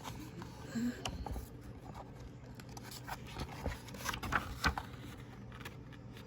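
Soft scattered rustles and clicks of a picture book being handled in a small room, busiest about four seconds in.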